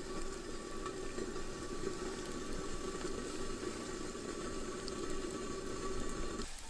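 Pot of water bubbling on a fire for instant noodles, a steady hiss and bubbling that cuts off abruptly near the end.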